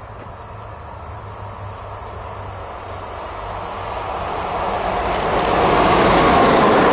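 Freight or works train led by a yellow SNCF Infra electric locomotive with a grey diesel locomotive coupled behind, hauling flat wagons. It approaches and passes close by, a rumble of wheels on rails that grows steadily louder and is loudest over the last second or so as the locomotives go by.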